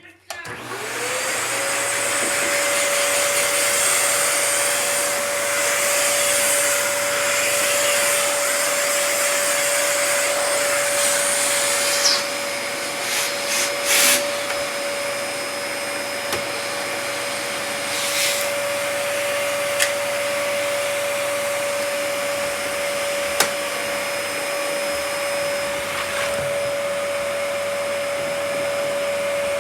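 A vacuum cleaner switches on and its motor spins up within about a second to a steady whine with a rushing hiss, then runs continuously over the floor. There are a few brief clicks and rattles about twelve to fourteen seconds in and a few more later.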